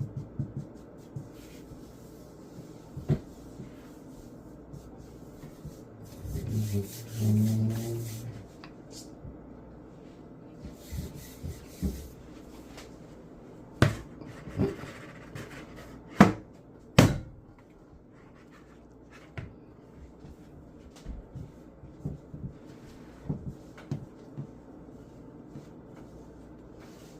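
Hands working dough on a floured kitchen counter: soft rubbing and scattered light knocks and taps, with three sharper knocks between about 14 and 17 seconds in.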